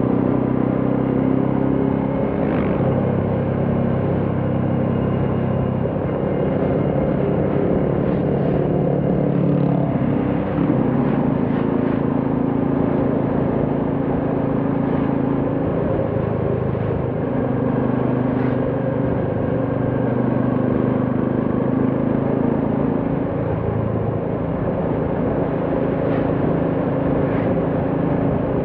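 Royal Enfield Classic 350's single-cylinder engine and exhaust running under way on the road, over road noise. The engine note shifts pitch several times as the speed changes.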